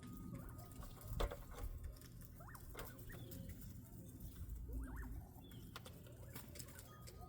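Bobwhite quail giving a few short, soft calls, each quickly rising and falling in pitch, over light pecking and scratching clicks. A sharper knock comes about a second in.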